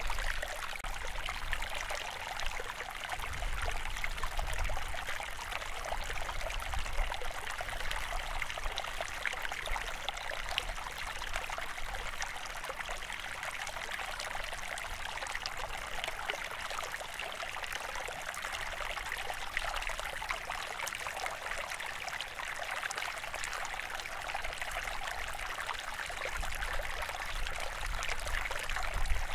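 Running water flowing steadily, an even rushing and trickling with no break.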